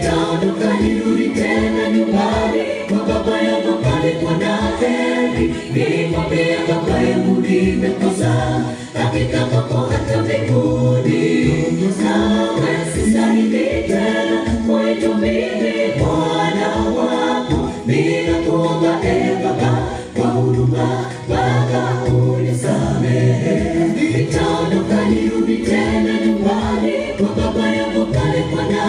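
Choir singing a gospel song, many voices together.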